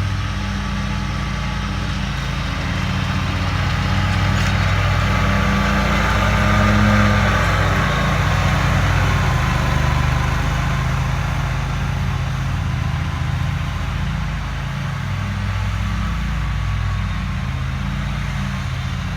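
Riding lawn mower engine running steadily under load while mowing grass, rising a little about a third of the way in.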